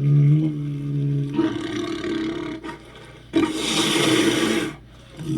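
Monster roar sound effects, like a cross between a bison, bear and big cat: a low pitched roar that breaks into a rough growl, a short lull, then a loud, harsh, breathy roar.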